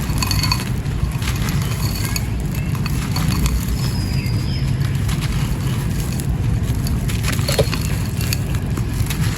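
Dry sand-and-cement mini clay pot crumbling under the fingers: irregular gritty crunches and crackles over a steady low rumble.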